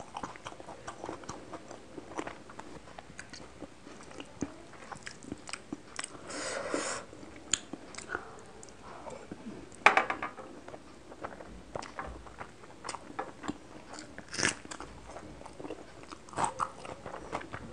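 Close-miked eating sounds: wet chewing, lip smacks and mouth clicks as fish curry and rice are eaten by hand, with a longer wet sucking noise about six seconds in and a sharp mouth click about ten seconds in.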